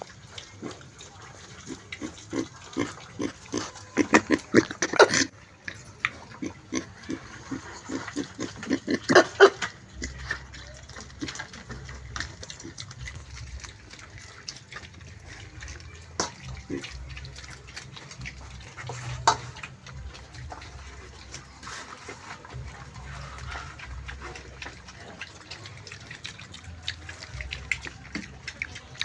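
Pig grunting in quick runs of short grunts, several a second, loudest about four to five seconds and nine seconds in. After about ten seconds it goes quieter, with only a few single sharp sounds.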